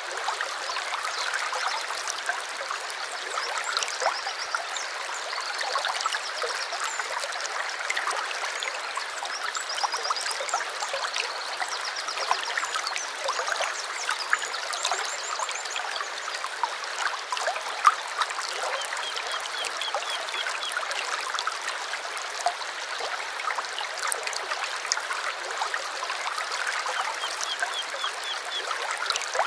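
Stream water trickling steadily, with short, high, rapid bird trills every few seconds.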